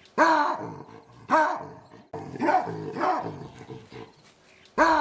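An animal giving short, pitched, bark-like calls, each rising and then falling, repeated about once a second.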